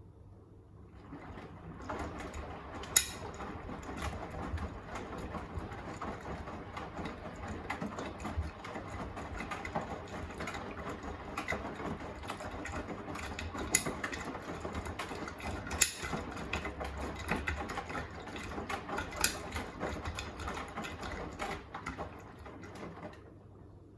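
Beko WTK104121A washing machine turning its drum during the wash, the motor running and the load tumbling, with frequent sharp clicks of the load knocking the drum. The tumble starts about a second in and stops just before the end.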